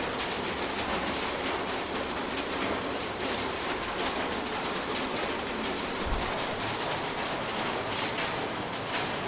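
Summer rain tapping steadily on a roof, a dense patter of many drops. A single brief low thump about six seconds in.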